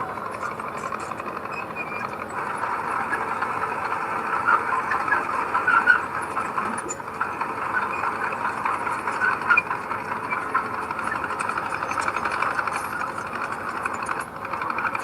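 Heavy earthmoving machine running steadily, with a dense metallic clatter and a few brief squeals, loudest about five to six seconds in.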